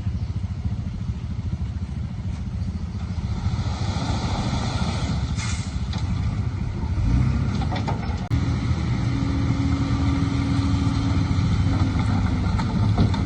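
Heavy earthmoving machine's diesel engine running steadily, then revving louder about seven seconds in, with a couple of short metallic clanks.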